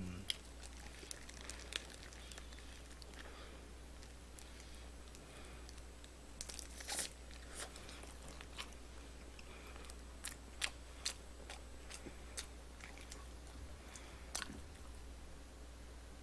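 Chewing and crunching of crispy glazed Korean fried chicken (dakgangjeong), close to the microphone, as scattered crunches and mouth clicks, most often about seven and ten to eleven seconds in.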